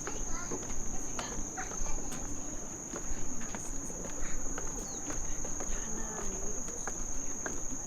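Crickets singing in one steady, unbroken high-pitched chirr, with scattered footsteps and faint voices of people nearby.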